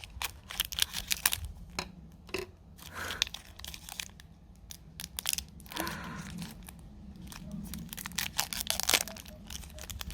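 Plastic snack wrapper being crinkled and torn open, with irregular sharp crackles throughout.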